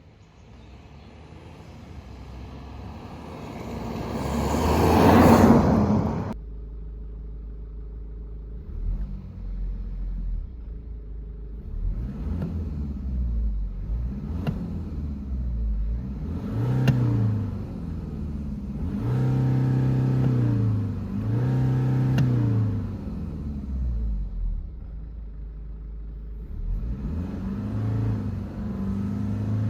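BMW 320d's four-cylinder turbodiesel engine, heard from inside the cabin, idling and revved up and back down about six times with the car standing. Before that, a rising rush of noise builds and cuts off suddenly about six seconds in.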